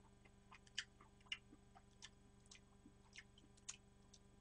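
Near silence with faint, scattered soft clicks of a person chewing food with mouth closed.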